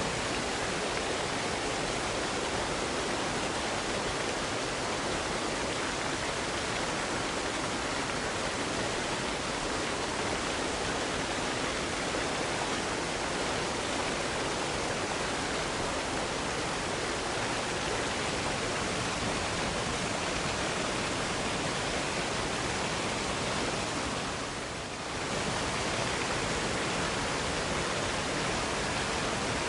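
Waterfall cascade: the steady rush of falling water, dipping briefly in level once near the end.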